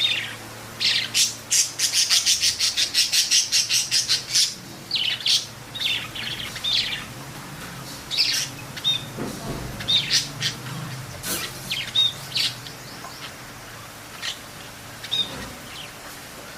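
Pet parrots calling: a fast run of sharp, high chirps, about five a second, in the first few seconds, then scattered single calls and squawks.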